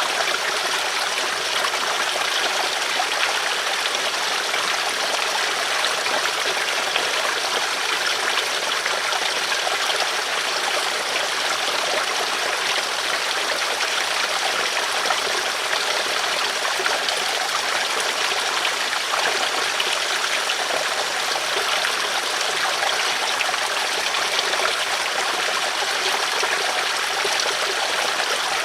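River water flowing over stones: a steady, even rushing of a stream.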